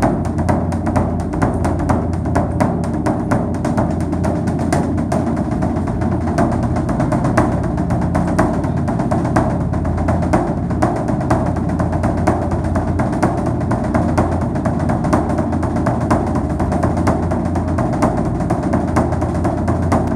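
Rapid, irregular percussive tapping, several strikes a second, over a steady low hum.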